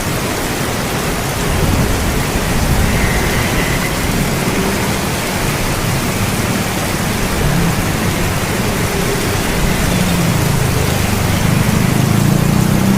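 Steady rain, an even hiss of falling water, with a low rumble swelling about two seconds in and again near the end.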